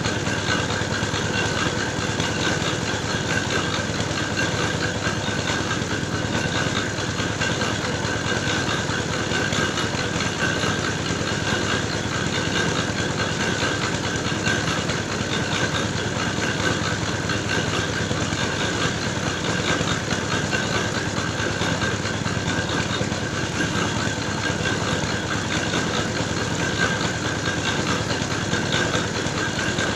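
Engine of a clay-grinding machine running steadily under load, milling soil into red-brick mix, with a constant hum and no changes in speed.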